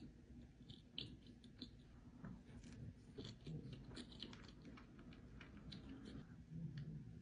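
Faint chewing of strawberry shortcake, with many small, irregular mouth clicks.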